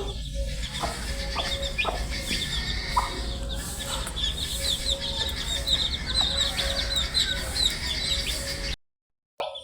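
Baby chicks peeping: many short, high chirps overlapping without pause. The sound cuts out briefly near the end.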